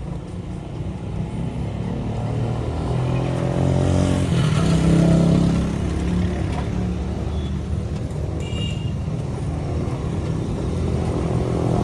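Motorbike engine and street traffic: an engine climbs in pitch as it speeds up about three to five seconds in, then settles. A brief high tone sounds near the nine-second mark.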